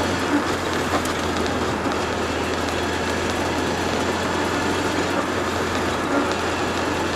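Turbocharged Toyota AE86 at a steady cruise: a constant engine drone with road and tyre noise, with no revving and a few small knocks.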